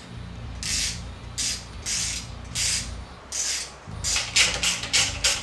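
Hand ratchet wrench being worked back and forth to drive bolts into an alternator, a clicking rasp with each stroke: slower strokes at first, then quicker ones, about three a second, from about four seconds in.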